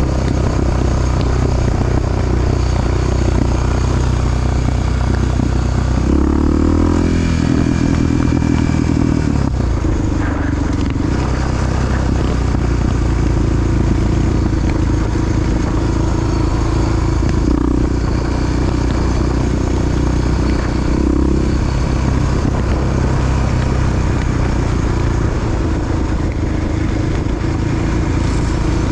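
Big single-cylinder four-stroke Honda XR dirt bike engine running under way, its pitch shifting up and down with the throttle, with a clear change in the engine note about six to nine seconds in.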